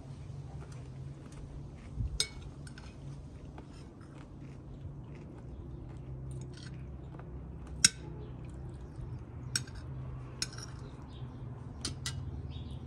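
Cutlery clinking against plates in a few sharp clicks, the loudest about eight seconds in, with chewing between them, over a steady low hum.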